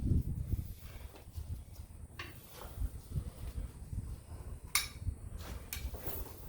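Steel attachment parts and pins of a backhoe quick-attach coupler clinking and knocking as they are handled and worked into place: a dull knock at the start, then a few scattered sharp metal clinks, the loudest a little under five seconds in.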